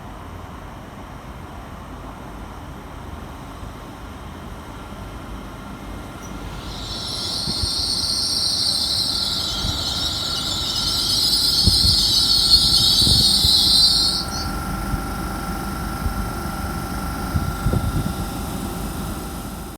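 A train running through a station, with a loud high-pitched metallic squeal that builds up and lasts about seven seconds before cutting off suddenly. A steady rumble runs underneath, with a faint whine and a few low thumps in the later part.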